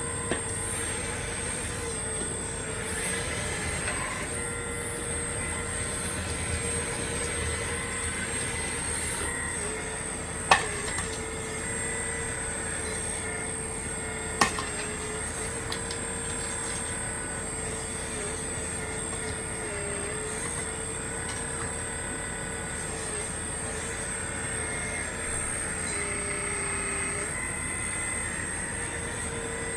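Hydraulic pump of an RC Caterpillar 336D2 excavator model running with a steady whine, its pitch sagging briefly now and then as the hydraulics take load. Two sharp metallic knocks, about ten and fourteen seconds in.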